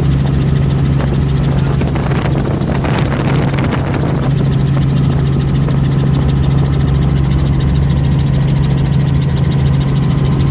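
Helicopter running with a steady low engine drone and the rapid even chop of its rotor.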